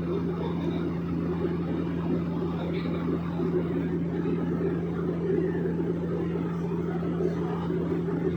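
Steady engine and propeller drone of a small propeller airplane, heard inside the cabin: a constant low hum with a rushing noise above it.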